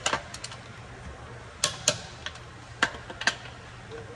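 Sharp metallic clicks and knocks at irregular intervals, about half a dozen, from tools working a car wheel's lug nuts as it is tightened onto the hub.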